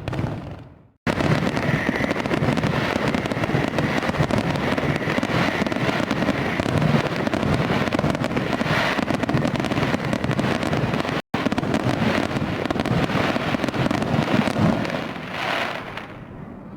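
Fireworks crackling: a dense, continuous stream of rapid crackles and pops without big single booms. The sound fades out and drops to silence just under a second in, restarts abruptly, and cuts out for an instant near the middle, then grows softer near the end.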